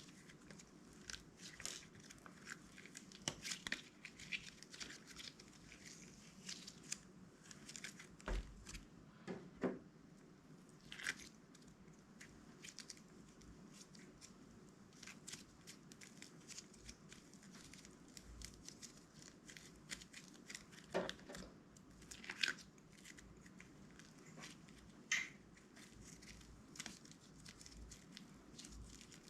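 Clear slime being kneaded and stretched by hand, giving irregular sticky crackles and small pops.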